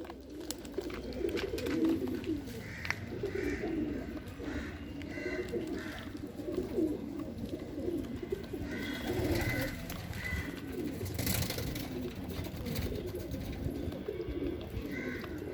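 Pigeons cooing continuously in low, rolling calls that overlap one another, with clusters of short higher chirps from other birds now and then.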